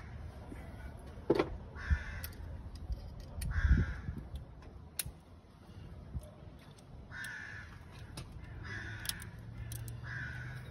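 A bird calling with short harsh calls, repeated about six times. A few sharp knocks and one louder low thump come about four seconds in.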